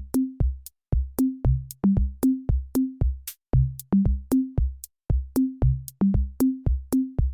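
Electronic background music: a drum-machine beat of short, low pitched drum hits, about three a second.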